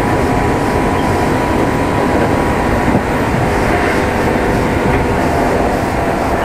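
Interior running noise of a Kintetsu 2610-series electric train, heard aboard motor car Mo 2668: a steady rumble of wheels on rail, with a faint motor hum.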